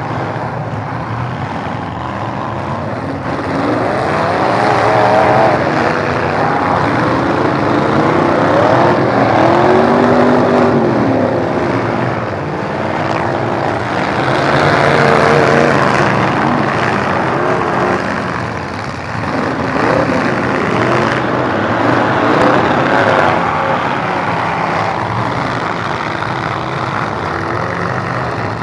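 Several demolition-derby truck engines running hard and revving, their pitches rising and falling over one another.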